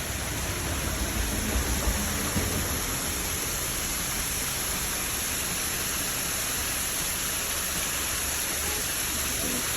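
Steady rushing noise, with a heavier low rumble in the first two seconds or so.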